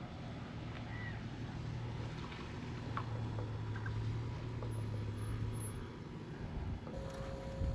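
Boat motor running with a steady low hum that fades out about six seconds in.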